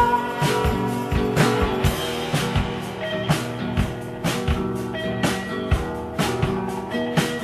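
Instrumental passage of an indie rock song: guitars over a steady drum beat, with no singing.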